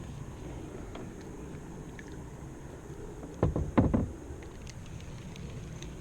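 A few knocks against a kayak, bunched together a little past the middle, over steady low background noise.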